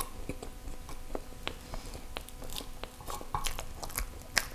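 Close-miked chewing of soft, creamy durian crepe cake: a scatter of short, sharp wet mouth clicks and smacks, several a second.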